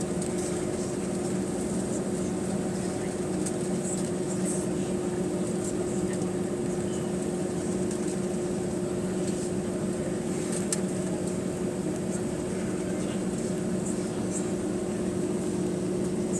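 Steady drone inside the cabin of an Airbus A320 with CFM56-5A engines, heard near the rear of the aircraft: an even rush of air and engine noise with a constant low hum in two tones, unchanging throughout, with a few faint ticks.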